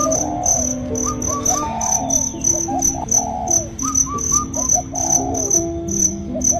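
Crickets chirping in a steady high pulse, with short whistled bird calls coming in repeated little groups. Under them runs a soft, slow melody of low notes.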